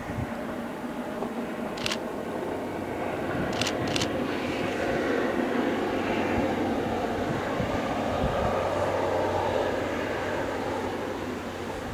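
ADtranz DE2000 diesel-electric locomotive hauling an InterCity train past: engine hum and wheels on the rails, growing louder to a peak in the middle and easing as the coaches roll by. Three sharp clicks in the first four seconds.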